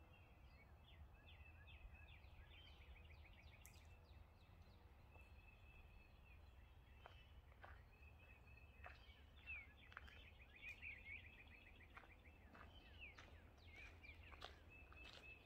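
Faint outdoor ambience: several songbirds chirping and singing rapid trills in the background, over a low steady rumble.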